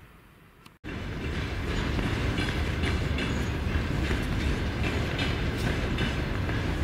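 Freight train rolling past: a heavy rumble with a rapid clatter of wheels over rail joints. It cuts in abruptly about a second in.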